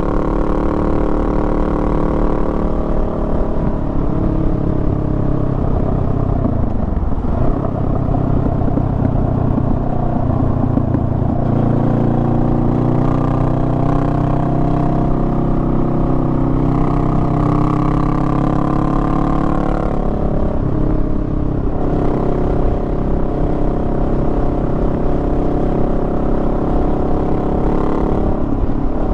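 Honda Rebel 500's parallel-twin engine running under way. Its pitch shifts with the throttle, falling about seven seconds in, rising again a few seconds later, and dropping once more around twenty seconds in and near the end.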